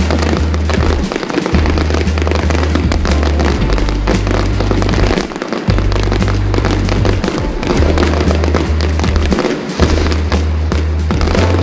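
Fireworks crackling and popping in rapid, dense bursts, mixed with background music carried by loud, sustained bass notes that change every second or two.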